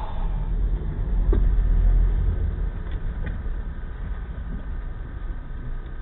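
A car driving: a low engine and road rumble that swells about a second in and then eases off slightly.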